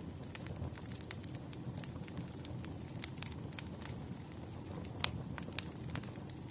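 Wood fire burning, with logs crackling and popping irregularly over a low, steady rumble. One sharper pop comes about five seconds in.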